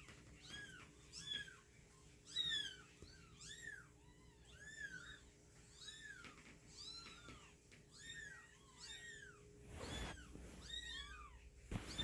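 Newborn kittens mewing: thin, high-pitched cries, each rising and falling, about two a second. Near the end, brief rustling.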